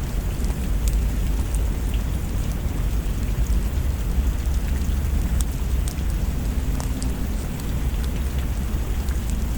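Steady rain with a continuous low rumble under it and scattered small crackles.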